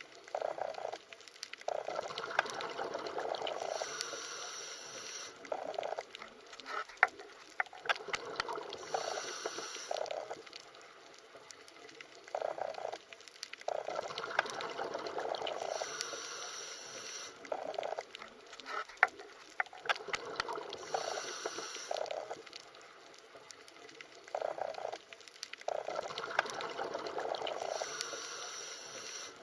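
Underwater ambience of bubbling and gurgling water with scattered sharp clicks, going in surges that repeat about every twelve seconds like a loop.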